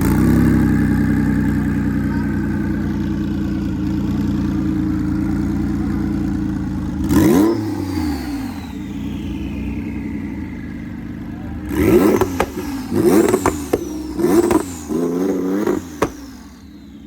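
Turbocharged car engine held at high revs, then a sharp blip about seven seconds in followed by a long falling whistle. Near the end comes a quick run of about five hard rev blips before the engine drops back.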